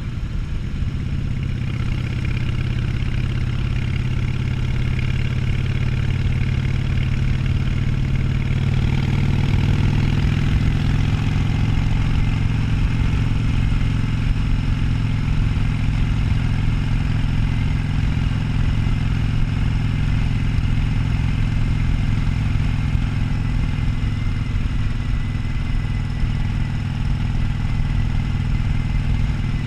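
Harley-Davidson Sportster 1200's air-cooled V-twin engine under way, rising in pitch over the first several seconds as the bike speeds up, then holding a steady cruise.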